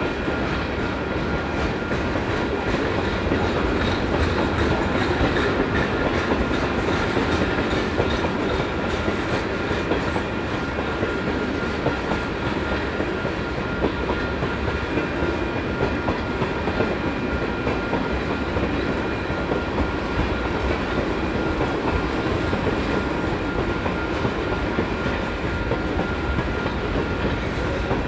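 Freight cars of a Canadian Pacific manifest train rolling steadily past, wheels clicking over rail joints, with a thin steady whine over the rumble.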